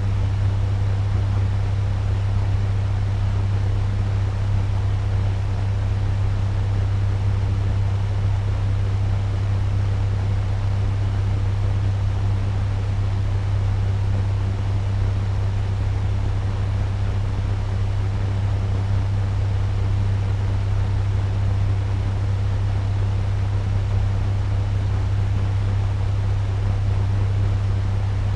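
Turbo fan running steadily at medium speed: a constant low hum under an even, airy rush of moving air.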